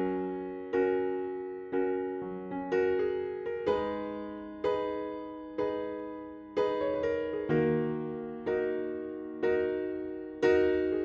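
Background music: slow piano chords, struck about once a second, each fading before the next.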